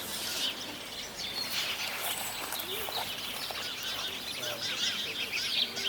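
Many small birds chirping and twittering at once, overlapping in a busy birdsong chorus, with a repeated arching call lower in pitch near the middle.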